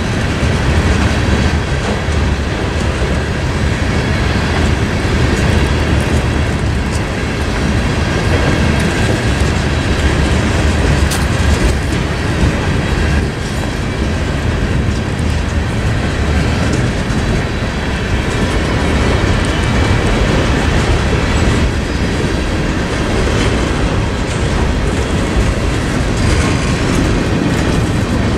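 Freight train's tank cars and boxcars rolling past close by, a loud, steady rumble of steel wheels on the rails with clatter over the rail joints and crossing.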